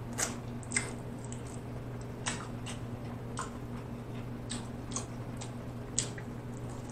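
Close-miked eating of barbecue ribs: scattered short wet clicks and smacks of chewing and biting meat off the bone, over a faint steady low hum.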